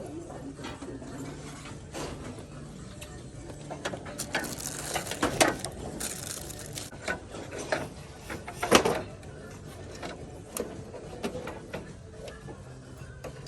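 Clatter of hard objects being handled and set down, with scattered clicks and knocks, thickest about four to six seconds in and with one loud knock near nine seconds, over a steady low hum.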